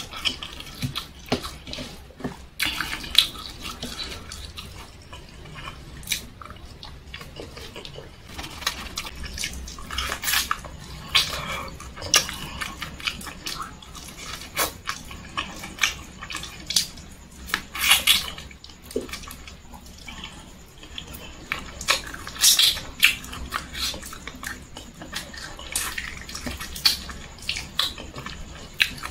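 Close-up eating sounds: wet lip-smacking and mouth clicks while chewing fried chicken and rice eaten by hand, in irregular short smacks.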